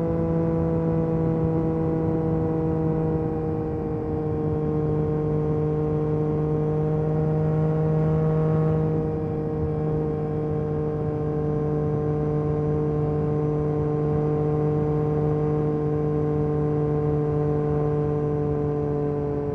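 Yamaha MT-09 SP's inline three-cylinder engine through an Akrapovic carbon racing exhaust, running at steady throttle while cruising. Its exhaust note holds an almost constant pitch, dipping slightly in the first few seconds.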